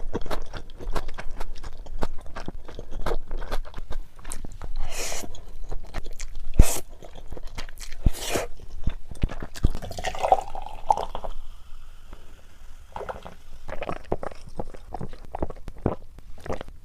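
Close-miked eating sounds: a person biting and chewing with many sharp crunches, and several short wet slurps.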